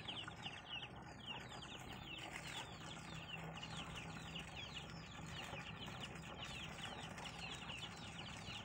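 Birds chirping in a continuous chorus of short, high, falling notes, several a second and overlapping.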